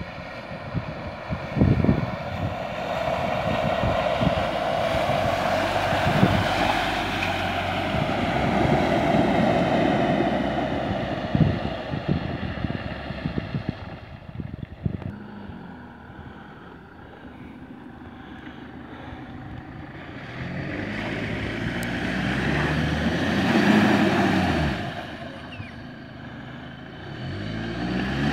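Land Rover Freelander 2 engine working through deep muddy ruts, running hard for the first half, easing off in the middle, then revving up again in two pushes near the end as the car labours in a deep rut.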